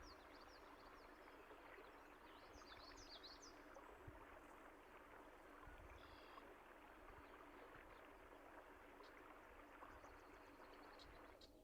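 Faint steady flow of a stream, with scattered high bird chirps over it and a quick run of chirps about three seconds in.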